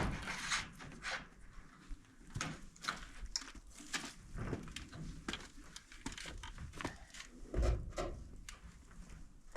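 Scattered knocks, taps and rustles of a plastic roofing panel being handled and shifted into place, with a heavier thump about eight seconds in.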